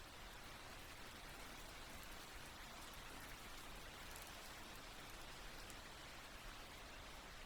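Soft, steady rainfall with scattered light drops pattering on a surface.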